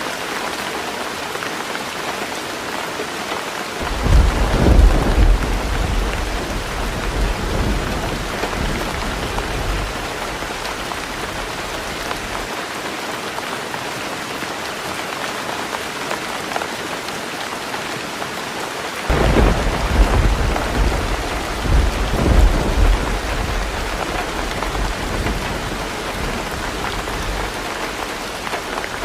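Heavy rain drumming steadily on a tin roof, with two rolls of thunder: the first breaks suddenly about four seconds in and the second about two-thirds of the way through, each rumbling low and fading over several seconds.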